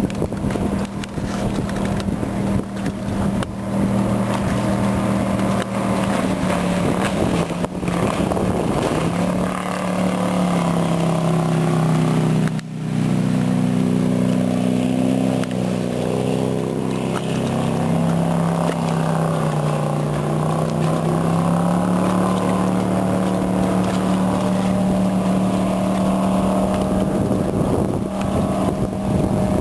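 1973 Apollo jet boat's 455 Oldsmobile V8 running under way. The engine note climbs about ten seconds in and cuts out for an instant a little later, then sags and climbs back around two-thirds of the way through.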